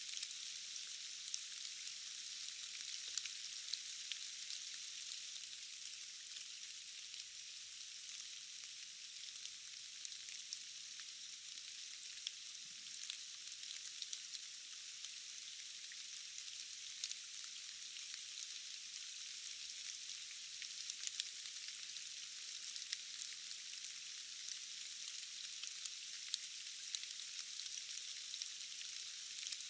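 Steady forest rain: a high, even hiss of many drops, with scattered sharper single drop ticks throughout.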